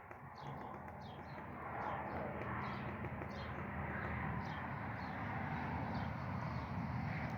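Small songbird chirping: a series of short, high notes, two or three a second, over a steady low rumble of background noise that grows louder about two seconds in.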